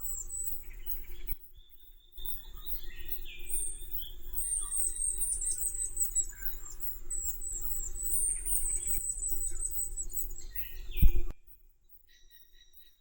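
Wallace's fairywren singing: series of very high, thin notes, repeated over and over, with other short chirps among them. A brief break comes about a second and a half in. Near the end the recording drops to a quieter run of short calls.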